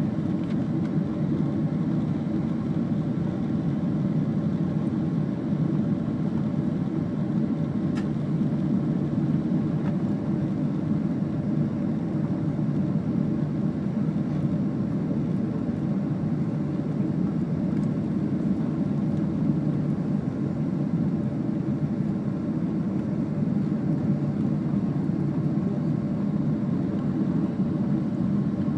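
Jet airliner cabin noise: a steady, low drone of the engines and rushing air, unchanging throughout.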